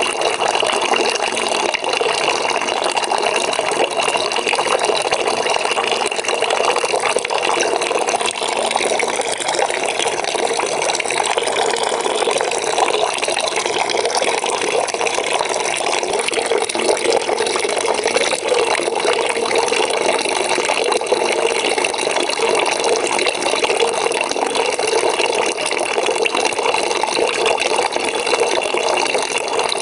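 Water pouring steadily into a bucket as it fills: a continuous, even rush of splashing water.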